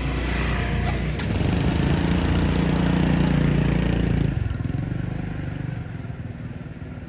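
A motor vehicle engine running, growing louder to a peak about three to four seconds in, then fading away, as when it passes close by or drives off.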